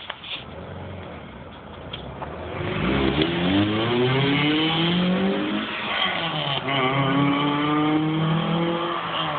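2005 Honda Civic EX's four-cylinder engine, with aftermarket intake and headers on the stock muffler, accelerating hard: the engine note rises through about three seconds, drops at an upshift about six seconds in, then rises again in the next gear before easing off near the end.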